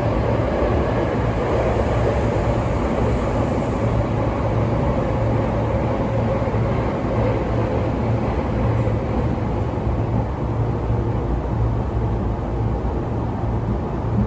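Sotetsu 12000 series electric train running at speed: a steady rumble of wheels and running gear, with a faint tone that sinks slightly in pitch during the first half.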